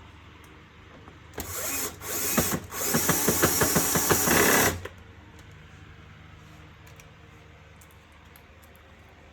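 Power screwdriver driving a screw in three short spurts over about three seconds, with a rapid ticking running through it, then stopping.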